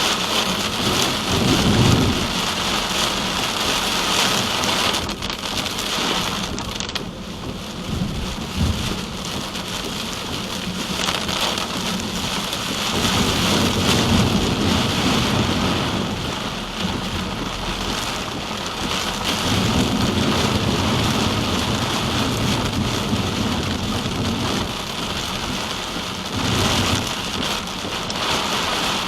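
Rain on a moving car with wet-road noise, as a steady hiss, and low rumbles that swell and fade every few seconds.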